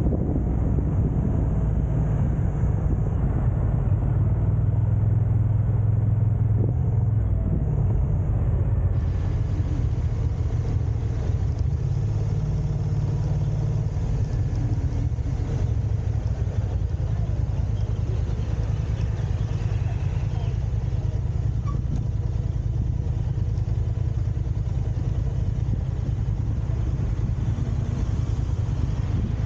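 Steady low rumble of a car driving: engine and tyre noise.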